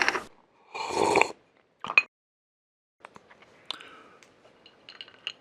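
A short breathy noise, then one sharp click, followed after a pause by faint scattered clicks and light taps.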